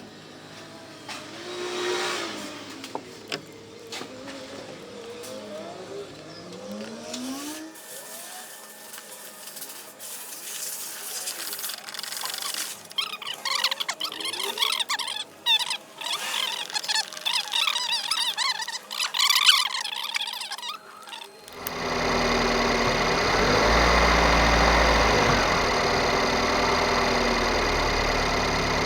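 Squeaks and clattering, then about three quarters of the way through a BMW 116i's four-cylinder petrol engine starts, flares up briefly and settles into a steady idle.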